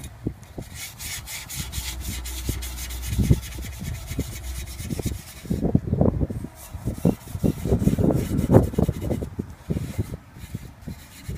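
A soapy steel-wool Brillo pad scrubbed back and forth on a metal exhaust tip: fast, even rubbing strokes, turning into heavier, lower thuds through the second half.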